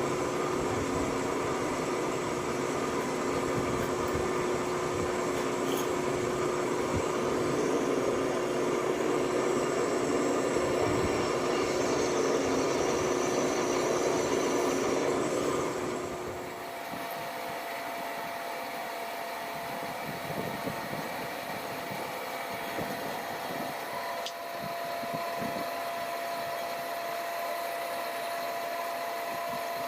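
A machine's motor running steadily with a constant hum. About sixteen seconds in it changes to a quieter, higher-pitched hum.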